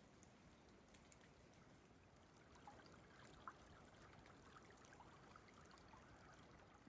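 Near silence: a faint even hiss with scattered small ticks.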